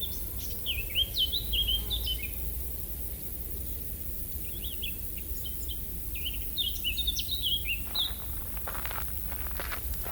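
A songbird sings two bursts of quick, chirping phrases over a steady low outdoor rumble. Footsteps begin near the end.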